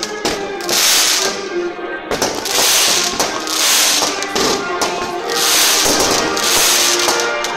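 Fireworks going off in a string of noisy bursts roughly every second or so, over music with held notes.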